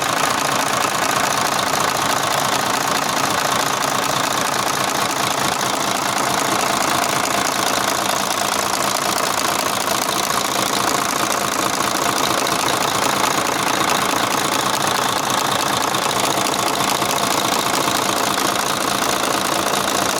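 Mercedes-Benz Actros truck diesel engine idling steadily with a dense, even mechanical clatter.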